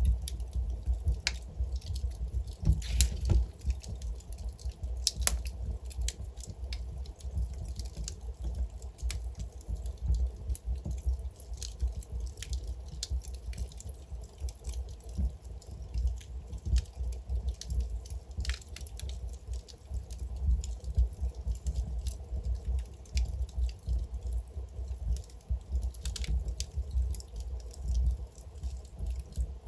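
Wood fire burning in a fireplace: burning logs crackling and popping in irregular sharp snaps over a low, steady rumble of flames.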